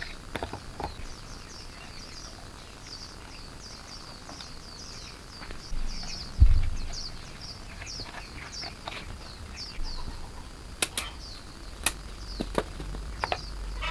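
A small bird chirping over and over in short, high, falling notes, several a second. Sharp clicks come near the end, and there is one dull thump about six seconds in.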